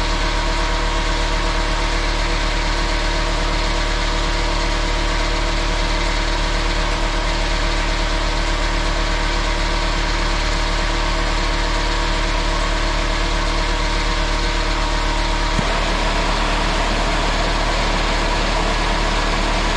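Pneumatic angle grinder running steadily with no load during a heat torture test, a continuous hum with a stack of steady tones. About fifteen seconds in, its tone shifts.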